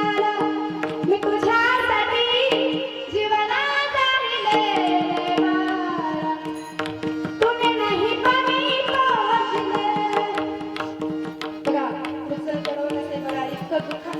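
Devotional kirtan music: a gliding melody over a steady held drone note, with hand-drum strokes throughout.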